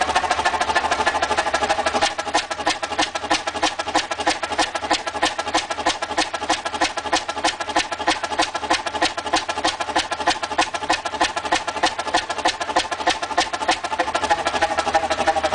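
Large engine running with a steady, rapid clatter of knocks, several a second, over a constant whine.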